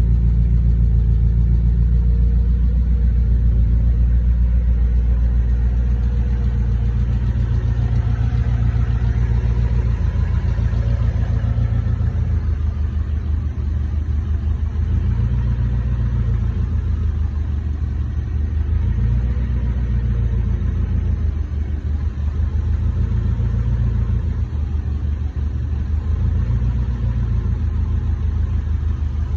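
Turbocharged twin-cam Toyota four-cylinder in an AE86 Trueno idling while warming up after sitting parked, a steady low rumble that becomes slightly more uneven after about ten seconds.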